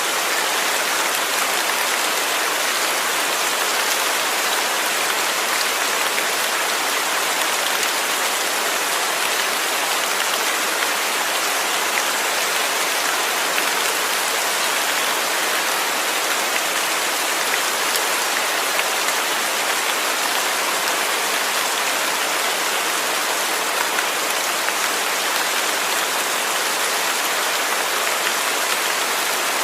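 Steady rain falling, an even hiss of many small drops hitting a surface, with no let-up or change in strength.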